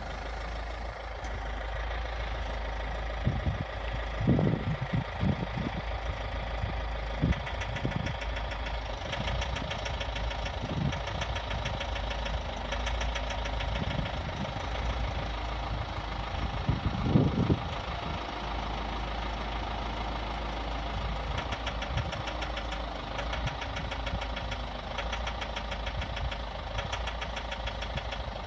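Chevrolet Captiva engine idling with a fast, even knocking that comes and goes in stretches, while the idle speed hunts between about 800 and 900 rpm. A few dull thumps stand out, several early on and one more past the middle.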